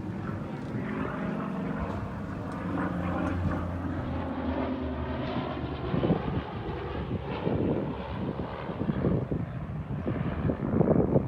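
A propeller aircraft's engine drones steadily overhead and fades after about five seconds. Gusts of wind then buffet the microphone, growing stronger near the end.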